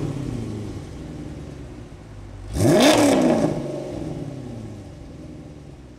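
Dodge Challenger SRT-8 Hemi V8 with ported heads, custom cam, Kooks stepped headers and Corsa cat-back exhaust, blipped at a standstill: a rev dies back to idle, then about two and a half seconds in a single quick throttle blip rises sharply and falls back to idle.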